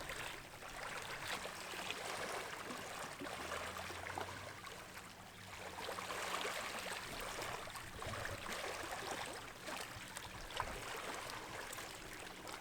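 Lake water lapping and washing at the shoreline, a steady noise that swells and eases.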